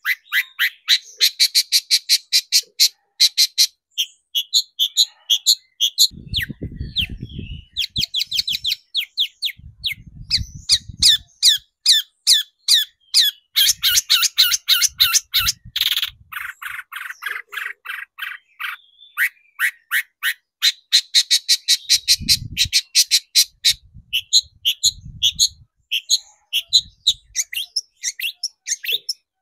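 Long-tailed shrike (cendet) calling in a fast run of short, harsh, chattering notes, several a second, pausing only briefly now and then. A few brief low rumbles sound underneath.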